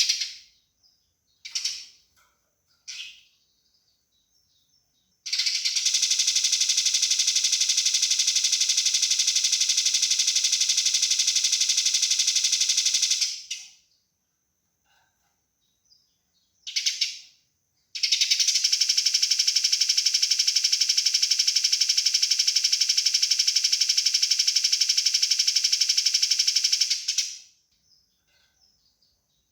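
Eurasian tree sparrow fighting calls: a few short chirps, then two long runs of very fast, dense chattering, each about eight seconds, separated by pauses.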